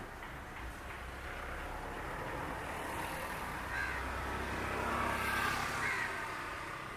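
A passing motor vehicle, growing louder to a peak about five seconds in and then fading, with crows cawing faintly.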